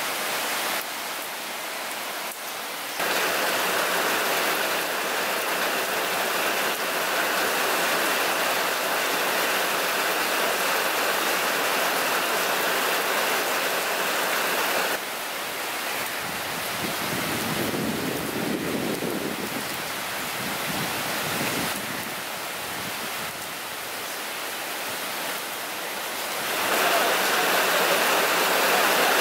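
Heavy rain falling steadily, its level stepping up and down abruptly a few times. A low rumble runs for a few seconds in the middle.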